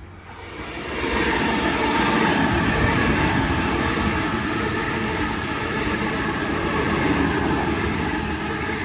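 A Sydney Trains double-deck electric suburban train running past the platform. The sound swells about a second in to a loud, steady rail rumble with a faint whirring tone over it, and eases off slightly near the end.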